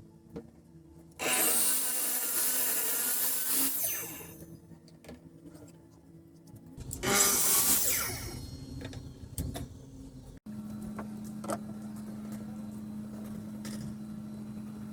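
A power tool cutting wood in two bursts, the first about three seconds long and the second shorter, each trailing off as the tool runs down. From about ten seconds in there is a steady low hum.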